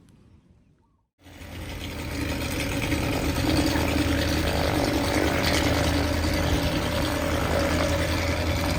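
An engine running steadily at an even pitch. It fades in about a second in, after a brief silence, and holds with no revving.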